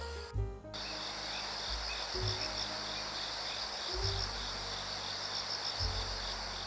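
Insects singing in a steady, high-pitched pulsing chorus that cuts out for a moment just after the start and then resumes, with soft background music underneath.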